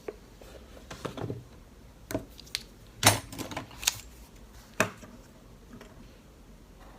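Irregular light clicks and taps of small hard objects being handled and set down, about a dozen scattered over several seconds, the loudest about three seconds in.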